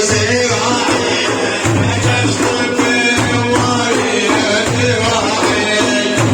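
Sufi devotional music without the lead voice: jingling frame drums beating a steady rhythm, with a pitched melody underneath.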